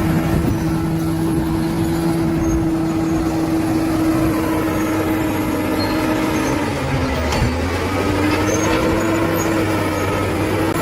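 Bulldozer's diesel engine running steadily under work. About seven seconds in its pitch sags briefly and then climbs back, with a single short knock at the dip.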